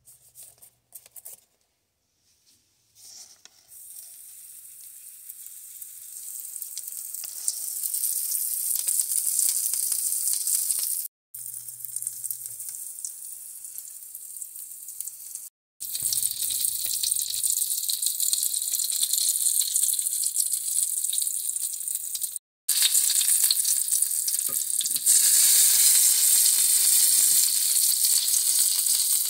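Cornmeal-and-flour-coated slices frying in shallow oil in a skillet: a steady high sizzle that builds over the first few seconds, cuts out abruptly three times, and is loudest near the end. A few faint, short handling sounds come before the sizzle starts.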